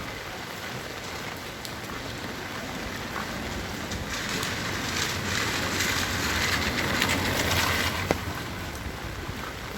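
Heavy rain falling with a steady patter. It grows louder for a few seconds midway, then eases back.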